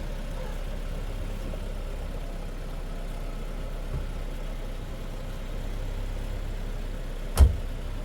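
Steady low rumble of an engine running at idle, with one sharp knock about seven seconds in.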